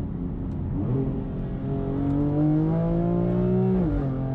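Car engine pulling under acceleration, its pitch rising steadily, then dropping sharply near the end as at a gear change, after which it runs steadily.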